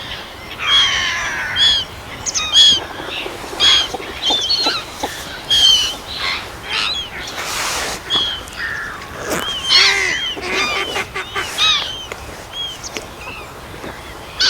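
A group of birds calling over one another, with many short, high calls repeated in quick succession.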